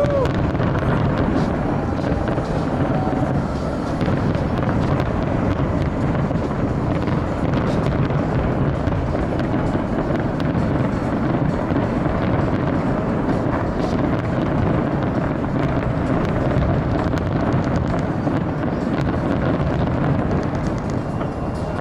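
A dense, steady outdoor crowd din with music over loudspeakers and the crackle and pops of a fireworks display.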